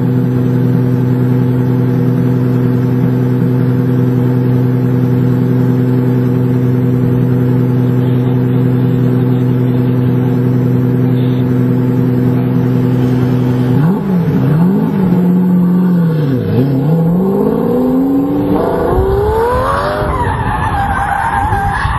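Supercar engine idling with a steady low tone, then, about two-thirds through, revved in swooping blips before accelerating hard, the pitch rising through the gears near the end.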